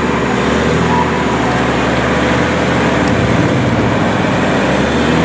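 Nissan Patrol off-roader's engine running steadily under way, with a constant hum over the noise of the drive.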